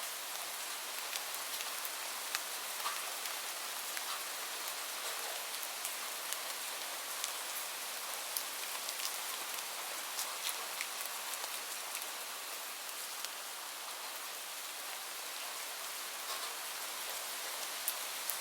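Steady rain: an even hiss with frequent sharp drops ticking through it.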